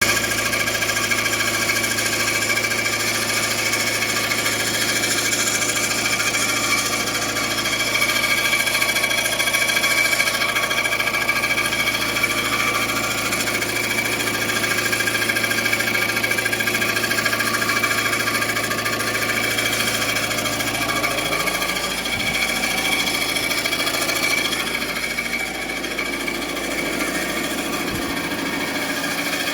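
2017 Volvo V90 engine running with a rapid, steady mechanical rattle from under the bonnet, the abnormal noise the owner is showing. A low hum underneath it drops out about two-thirds of the way through.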